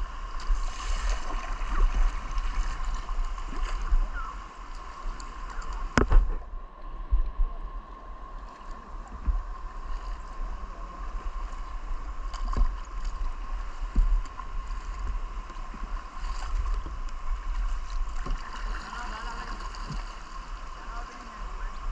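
Rushing river rapids, a steady noise of moving water, broken by a few sharp knocks; the loudest knock comes about six seconds in.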